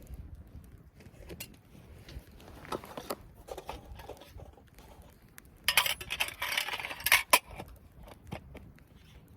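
Metal items clinking and clattering as they are handled, with a burst of louder clatter about six to seven seconds in.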